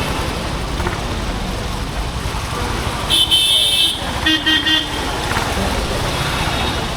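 Honda H'Ness CB350's single-cylinder engine running under way, a steady low rumble, while vehicle horns sound in traffic: a long high-pitched honk about three seconds in, then three quick short beeps from a lower-pitched horn.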